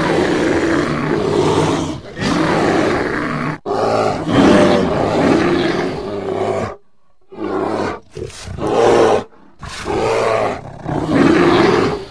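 Bear roaring and growling. A long run of hoarse roars lasts about the first six and a half seconds, then four shorter growls follow, each separated by a brief gap.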